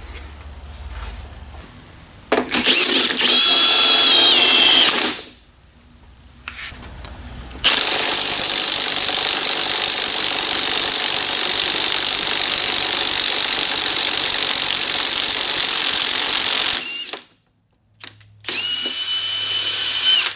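Power tool running in three bursts: a short one a couple of seconds in, a long steady run of about nine seconds in the middle, and another short one near the end, the short ones carrying a steady whine. It is heard while the rear end's pinion is being taken apart to change its shim.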